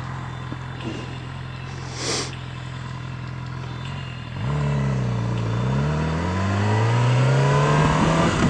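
Motorcycle engine running at a steady speed, then about four seconds in the throttle opens and the engine note climbs steadily as the bike accelerates. Wind noise on the helmet-mounted microphone runs underneath.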